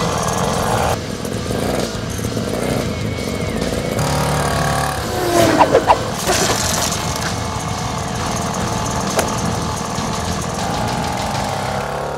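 Small motorbike engine running steadily, with a brief louder burst of changing pitch about halfway through.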